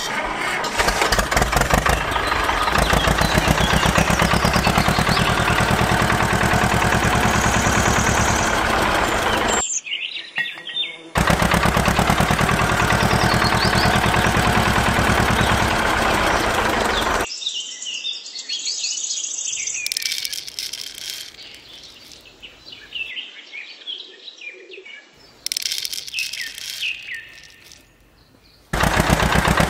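Tractor engine running with a fast, even chugging, cutting out for a second or so about ten seconds in and again after about seventeen seconds. In the quieter stretch that follows, birds chirp, and the engine comes back just at the end.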